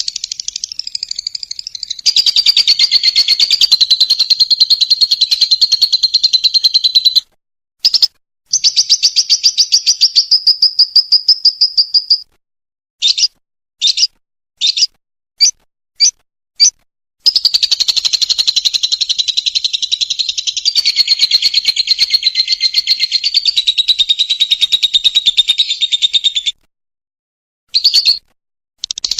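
Lovebird ngekek: long runs of rapid, shrill chattering trill that break off abruptly into silence, with a string of about six short bursts in the middle.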